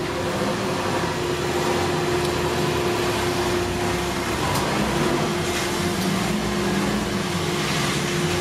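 Suzuki Jimny's engine running as the lifted Jimny drives slowly away: a steady low hum whose pitch rises a little about two-thirds of the way through.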